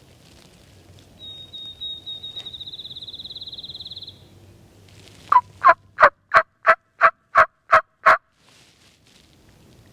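A high songbird trill, quickening as it goes, then a loud series of nine evenly spaced wild turkey yelps, about three a second.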